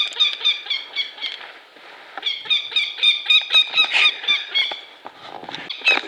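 Northern goshawk giving its alarm call at an intruder near the nest: a rapid series of harsh, repeated notes, about five or six a second, coming in three bouts with short pauses between.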